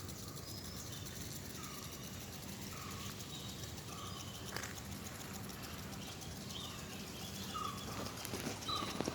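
Birds calling in a garden: a short, slightly falling call repeated about once a second, with higher chirps among it, and a few sharp knocks near the end.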